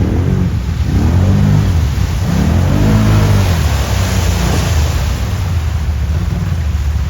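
Quad (ATV) engine revving up and dropping back several times as it is ridden, over a steady rushing noise.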